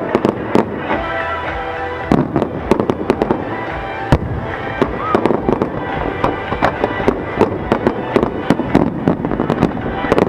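Aerial fireworks bursting and crackling in quick succession, with heavier booms about two and four seconds in, over music playing.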